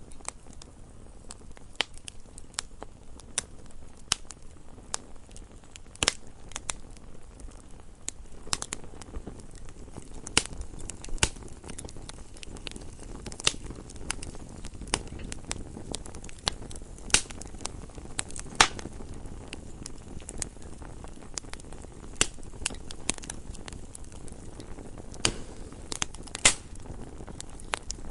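Wood fire burning in a fireplace, with frequent irregular crackles and sharp pops over a steady low hiss of the flames.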